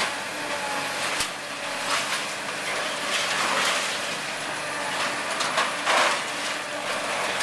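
Heavy demolition machinery: a diesel engine running steadily, with a sharp knock about a second in and louder bursts of crunching and scraping debris around three and six seconds in.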